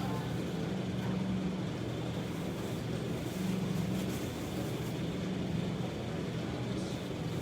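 Steady hum of a car engine running, with low road noise.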